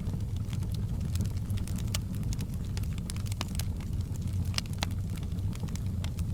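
Campfire crackling: irregular sharp pops and snaps of burning wood, a few louder ones in the middle, over a steady low rumble.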